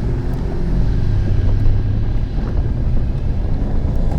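Car engine running at low revs, a steady low rumble under an even haze of noise.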